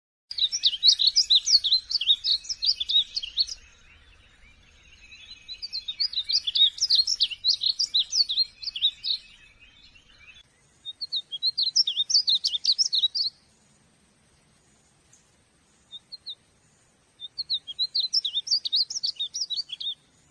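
Painted bunting singing: four bursts of rapid, high, sweet warbling notes, each a few seconds long with short pauses between, and a couple of single notes in the longest pause.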